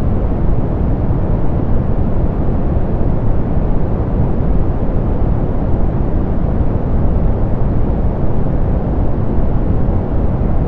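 Soft pink noise: a steady, even hiss weighted toward the low end, with the highs rolled off.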